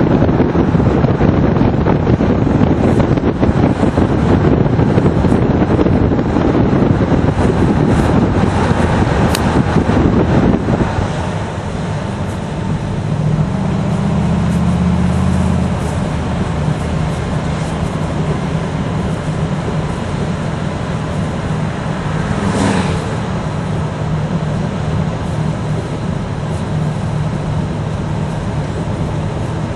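1972 Buick Riviera's 455 cubic-inch V8 with factory dual exhausts, driving steadily along a road. For the first ten seconds or so, wind rushing over the microphone held out the side window covers most of it. After that the low exhaust note comes through clearly, swelling for a few seconds before settling steady.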